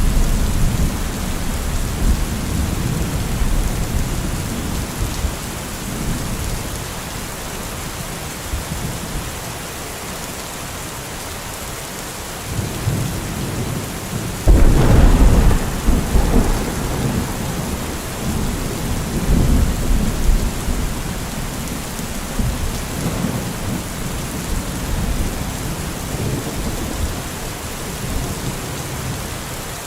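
Thunderstorm: steady rain with rolling thunder. A sudden loud thunderclap comes about halfway and rumbles on for a couple of seconds, with weaker rumbles after it.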